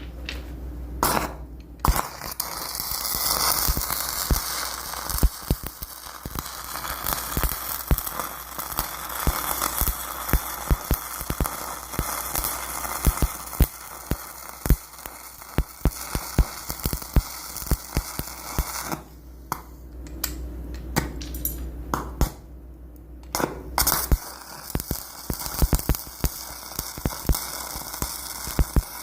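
Arc welding a nut onto the back end of a bolt: a steady crackling sizzle with many irregular sharp pops. The arc breaks off briefly about two seconds in and twice more in the last third.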